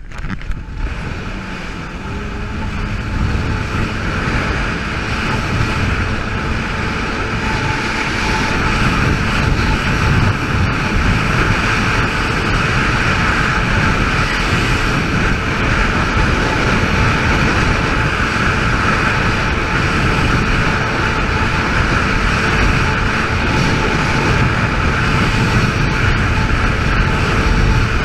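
Yamaha GP800 jet ski's two-stroke twin engine running under way. It grows louder over the first several seconds as the craft speeds up, then holds a steady drone.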